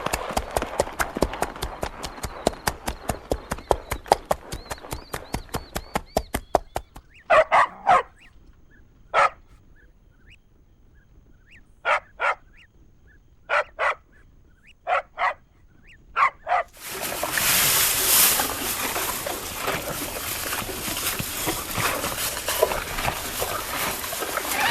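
Horse hooves drumming fast and evenly at a gallop for about seven seconds. Then a quiet stretch broken by short sharp animal calls, mostly in pairs. From about seventeen seconds in, a loud steady rushing noise with a call running through it.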